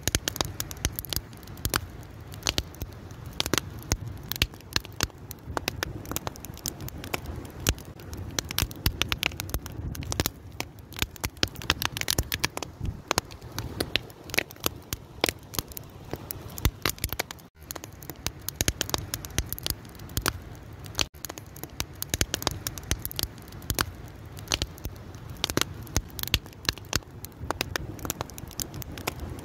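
A fire crackling, a dense, continuous run of sharp pops and snaps over a low, steady rush of flame. Twice in the second half the sound cuts out for an instant.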